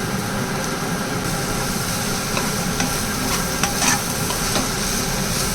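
Food sizzling in a frying pan while it is stirred with a spatula, the spatula clicking sharply against the pan several times from about two seconds in until near the end, over a steady hum.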